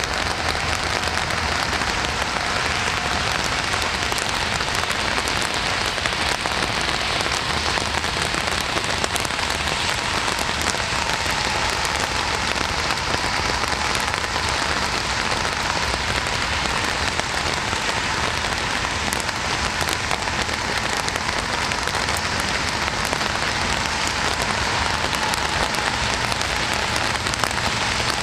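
Steady heavy rain falling on a surface, a dense even hiss with many small drop ticks.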